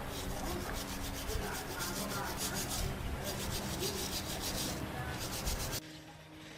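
Rapid back-and-forth abrasive rubbing on a surface, about six strokes a second, cutting off suddenly near the end.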